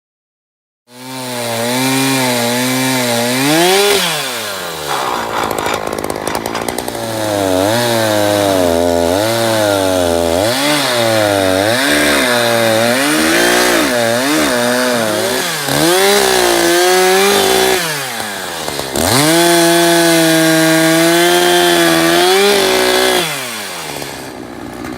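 Chainsaw running and cutting wood, its engine speed rising and falling over and over as the chain bites and frees. It starts abruptly about a second in, holds steady at high revs for a few seconds near the end, then drops back.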